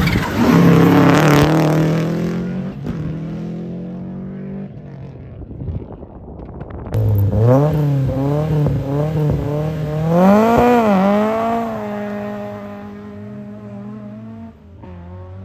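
Historic rally car engine going past at speed, its note dropping and fading away. About halfway through a second rally car engine comes in, revving up and down several times, then holds a steadier note as it fades.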